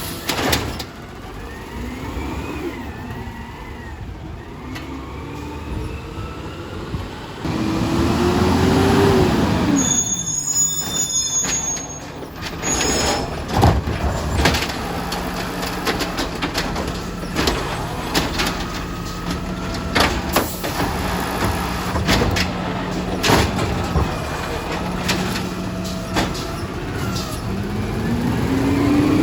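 Garbage truck working at the curb: its diesel engine revs up and down, with a high squeal about ten seconds in, scattered knocks and clanks, and a steady hum through the middle.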